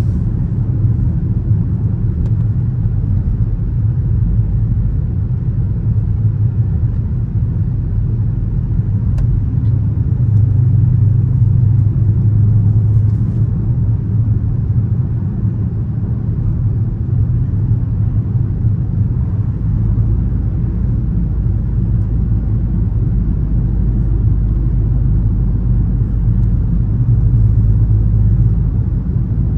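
Dodge Charger R/T's V8 engine running at a steady drone with road rumble while driving. It swells slightly louder twice, about a third of the way in and again near the end.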